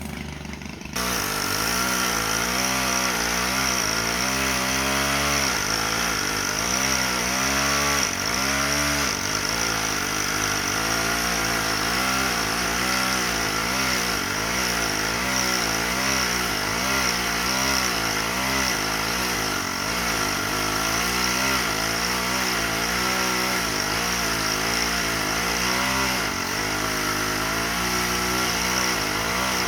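The engine of tree-removal equipment comes in loud about a second in. Its pitch rises and falls repeatedly for the first several seconds, then it runs on steadily with a slight waver.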